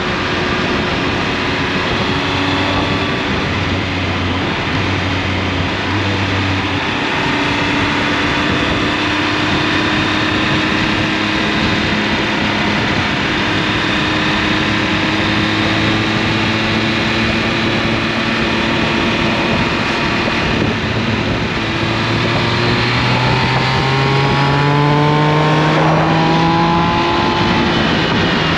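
Triumph Speed Triple 1200 RS's inline three-cylinder engine running at a steady cruise under wind and road noise. About three-quarters through it pulls harder, its pitch rising, then drops briefly and picks up again near the end.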